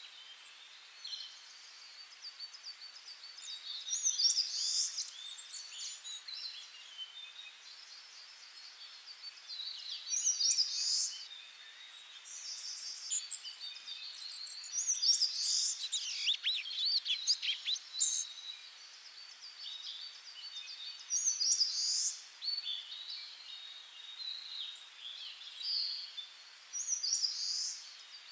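Songbirds singing and chirping over a faint steady hiss, with louder song phrases every few seconds.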